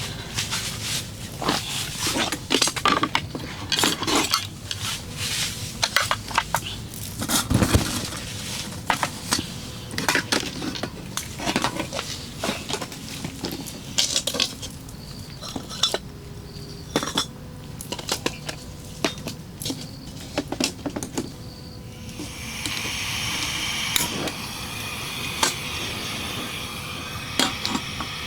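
Camp cookware and utensils clinking and knocking: many irregular sharp strikes of metal pots, pans and cutlery being handled. A steady hiss sets in near the end.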